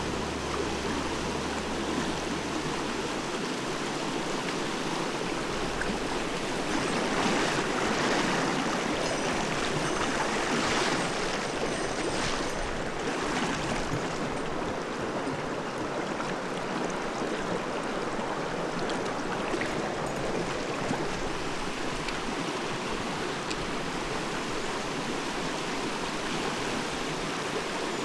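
Mountain stream rushing steadily over rocks, swelling a little for several seconds near the middle. A low hum stops about three seconds in.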